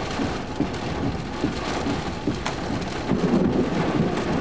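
Heavy rain pelting down on and around a car with its window open, the dense patter of drops running throughout, with thunder rumbling low underneath and swelling about three seconds in.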